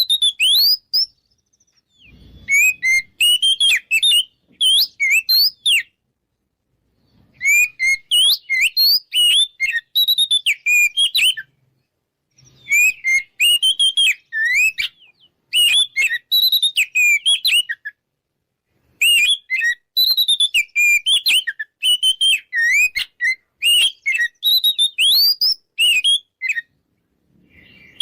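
Oriental magpie-robin (kacer) singing a loud, open 'ngeplong' song: fast, varied whistles and chirps in phrases of a few seconds, with short silent breaks between them.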